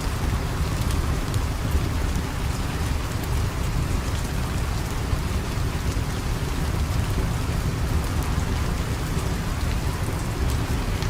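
Steady rain falling, an even hiss with a deep low rumble beneath it and a few faint ticks.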